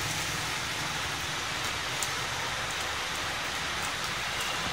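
Fairly heavy rain falling steadily on a street and the surfaces around it: an even hiss with a few faint drop ticks.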